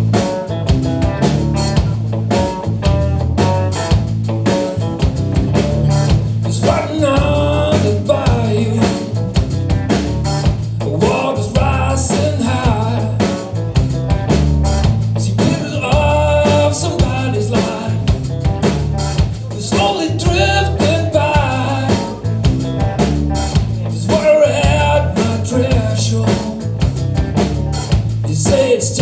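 Blues trio playing an instrumental passage: guitar lead lines with bent notes over a steady repeating bass line and drum kit.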